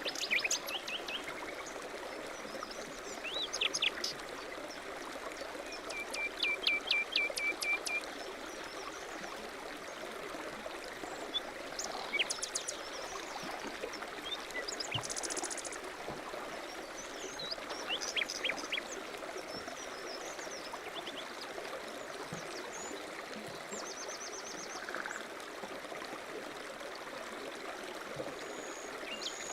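A mountain stream rushing steadily, with birds calling and singing over it. Among the calls are a run of evenly repeated notes about six seconds in and a fast high trill around the middle.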